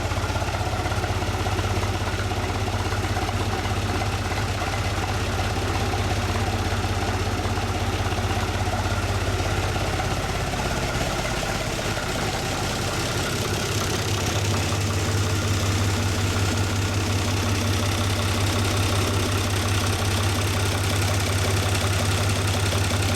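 UTB U445 DT tractor's diesel engine idling steadily. Its low note changes and weakens about halfway through, then settles back stronger and steady.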